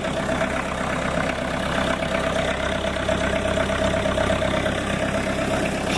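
Four-cylinder Kubota diesel engine idling steadily just after a cold start, with a steady whine over the engine's running.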